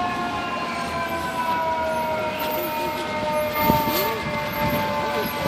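Fire apparatus siren sounding a steady chord of tones that slowly falls in pitch as it winds down, with a fainter wavering siren underneath.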